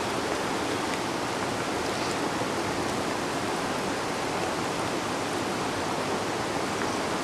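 River water flowing steadily below a vine bridge: an even, unbroken rushing noise.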